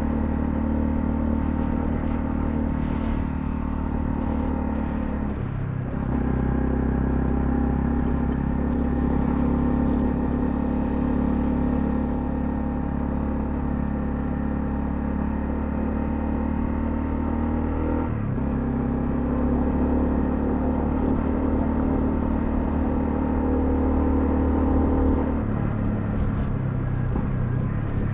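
Honda CL250 motorcycle engine running steadily while riding, with two brief breaks in its note about five and eighteen seconds in and a change in pitch near the end.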